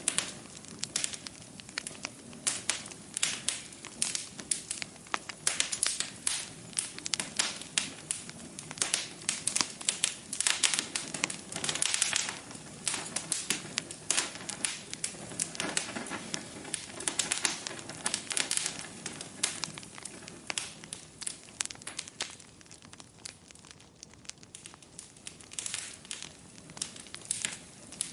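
Wood fire burning in a fireplace, crackling steadily with a dense run of small pops and snaps, busier for a few seconds near the middle.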